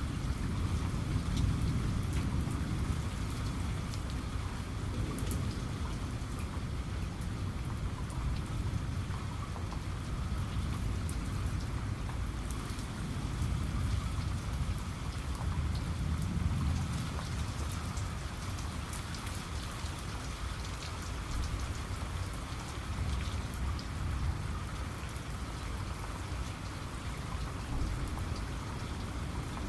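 Steady heavy rain with scattered drops ticking, under low rolling rumbles of distant thunder that swell and fade, strongest near the start and about halfway through.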